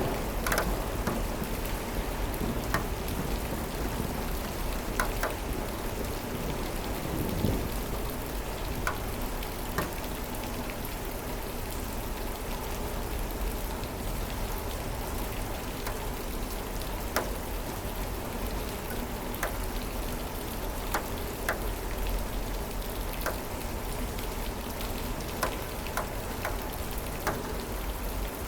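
Steady rain falling, with scattered sharp drips striking close by. The tail of a thunder roll dies away in the first moments.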